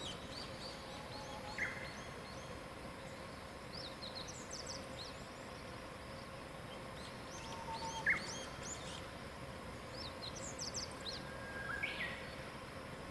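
Several wild birds singing together in a chorus of high chirps and short trills. Louder single calls that slide downward in pitch stand out about a second and a half in and about eight seconds in, with another near the end.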